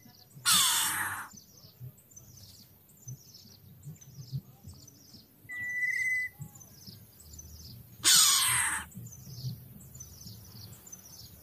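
Birds calling: a string of short, high, falling chirps about twice a second, broken by two loud harsh calls, one about half a second in and one about eight seconds in, and a single steady whistled note near the middle.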